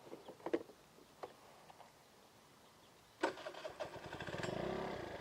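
A vehicle engine cranked and started about three seconds in, after a few faint clicks, then running with a rapid even pulse that grows louder.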